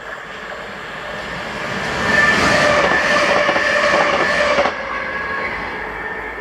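ScotRail Class 385 electric multiple unit passing at speed: the rush of the train builds, with a steady whine over the wheel noise, is loudest for about two and a half seconds, then drops sharply as it goes by.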